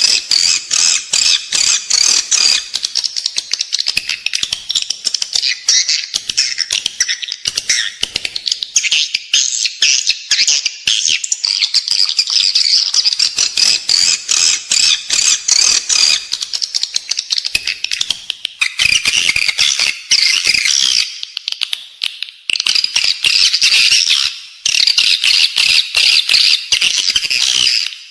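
Recorded calls of edible-nest swiftlets: a dense, continuous stream of rapid, high twittering chirps. It is the lure call played inside swiftlet houses to draw the birds in to roost and nest, with a few brief dips about two-thirds to three-quarters of the way through.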